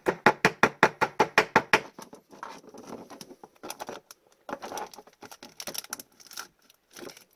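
A quick, even run of about a dozen sharp clicks, then irregular rustling and scraping of plastic as an oversized card is worked into a plastic team bag.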